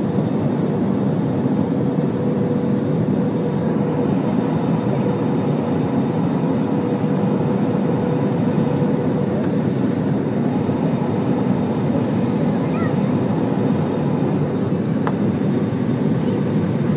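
Airliner cabin noise during the approach to landing: the steady rush of the jet engines and airflow, with a steady hum running underneath.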